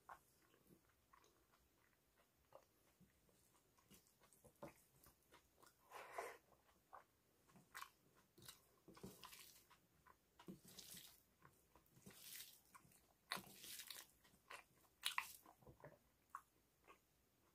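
Faint, close-up eating sounds of a person eating rice and dal by hand: wet chewing, lip smacks and scattered crisp clicks, with soft squelches of fingers mixing the food on a steel plate. The clicks and smacks come in irregular clusters, busiest in the second half.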